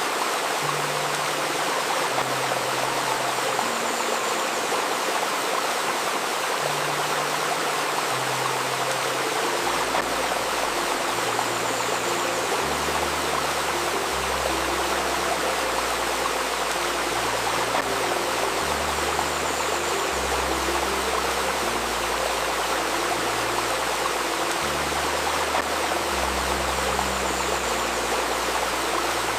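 A babbling stream running steadily, layered with soft, slow ambient music built around the 528 Hz Solfeggio frequency: sustained low notes that change every second or two, with a deeper bass line joining about ten seconds in.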